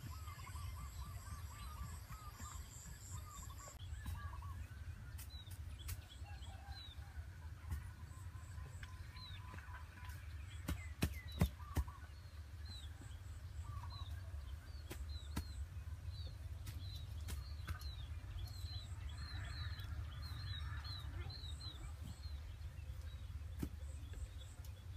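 Birds chirping over and over, with a steady low rumble underneath. A high pulsing trill runs for the first few seconds, and a few sharp clicks come about eleven seconds in.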